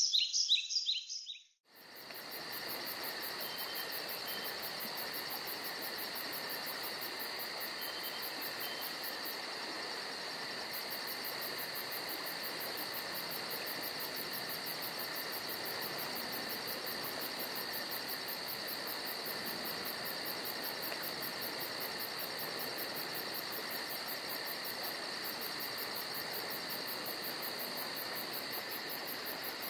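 Brief bird chirps, then after a short gap a steady cricket chorus about two seconds in: a continuous high chirring trill with fast, even pulsing that holds unchanged.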